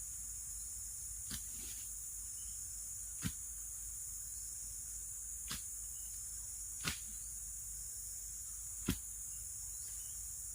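Steady high-pitched chorus of forest insects such as crickets or cicadas, with five sharp clicks or knocks scattered through it a second or two apart.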